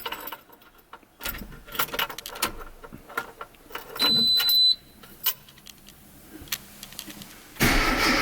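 Keys jingling and clicking at the ignition, with a short high electronic beep about four seconds in. Near the end the starter cranks the 1994 Mini Cooper SPi's 1.3-litre A-series four-cylinder engine for a cold start after weeks unused.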